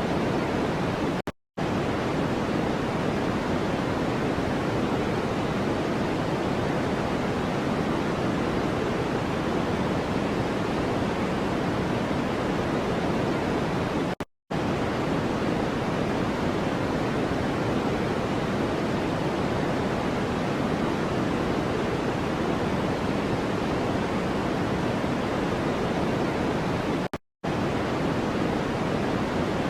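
Steady hiss of a noise track for sleep or masking, fuller in the low-mids like pink noise rather than bright white noise. It cuts out completely for a split second three times, at even spacing about 13 seconds apart.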